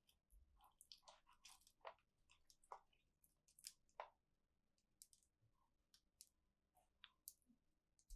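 Faint, irregular clicks and crackles of plastic toy packaging and parts being handled during unboxing.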